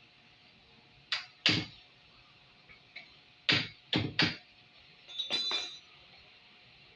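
Five sharp knocks against the washing machine as it is worked on, then a brief metallic clinking rattle just past halfway.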